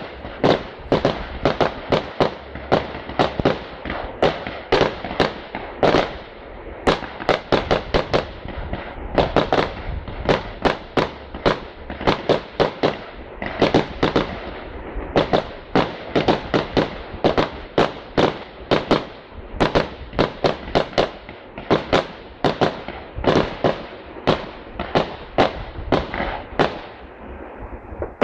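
Public firework display: a rapid, continuous barrage of shells bursting, several loud bangs a second with a low rumble beneath, heard from close by.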